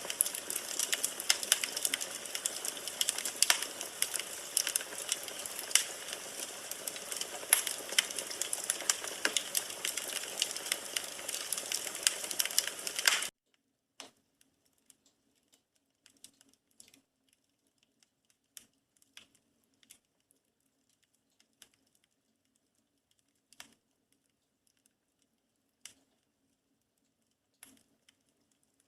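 Burning firewood in a fireplace, crackling and popping densely over a steady hiss. About halfway through the sound cuts off abruptly, leaving only a few faint, scattered pops.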